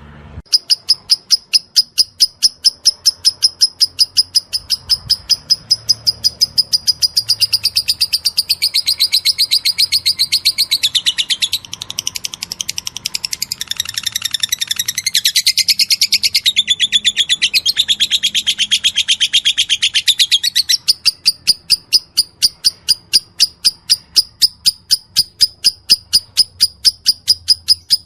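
Lovebird's long chattering song (ngekek): sharp high chirps repeated about three times a second. For a stretch in the middle the notes crowd together and drop lower, then the even run resumes.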